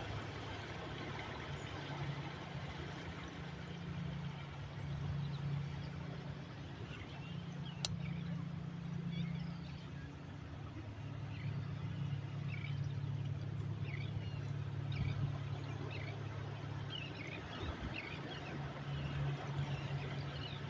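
Steady low rumble and wash of the sea, with birds giving short scattered chirps from about a third of the way in, and a single sharp click about eight seconds in.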